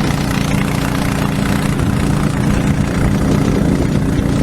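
Engine of heavy construction machinery running steadily at idle, a low even hum.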